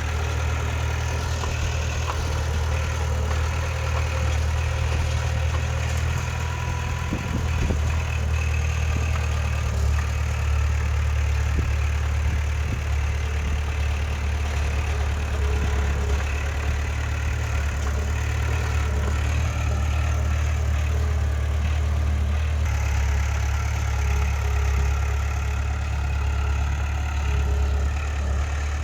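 Diesel engine of heavy earthmoving machinery running steadily, a low, even drone with no breaks.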